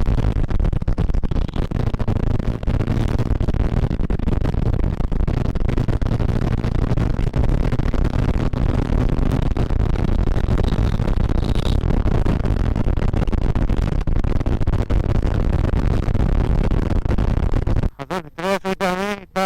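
Steady wind buffeting on the microphone of a moving motorcycle, with its engine running under it. About 18 seconds in this cuts to music with wavering, bleat-like pitched tones.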